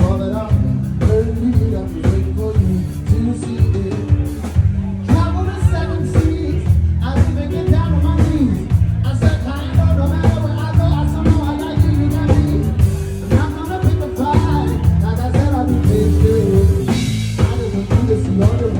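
Live band music with a steady drum beat and bass, playing an instrumental stretch of a rock song with no sung words.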